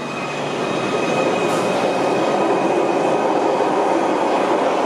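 Merseyrail Class 777 electric train running into an underground station platform: a steady rolling rumble of wheels on rail that grows louder over the first second or two, with a thin, steady high tone above it.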